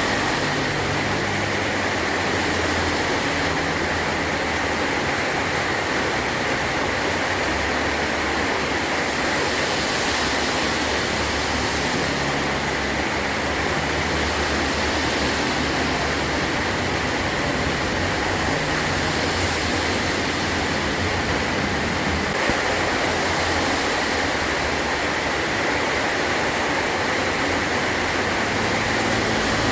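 Heavy rain falling steadily on a metal roof: an even, unbroken hiss.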